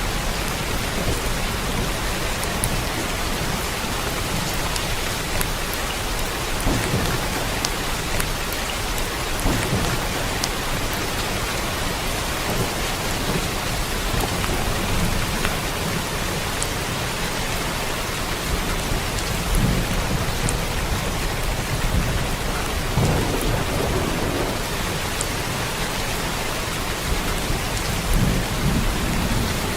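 Steady rain falling, an even hiss of drops, with low rumbles of distant thunder swelling now and then, notably around a third of the way in and again in the last third.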